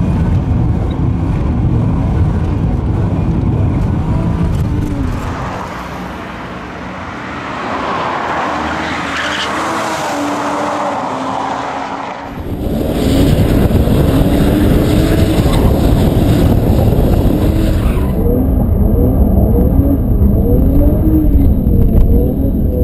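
BMW M5 engine revving hard, its pitch rising and falling again and again, with tyres squealing as the car is driven and drifted. The sound changes abruptly about twelve seconds in, then runs louder.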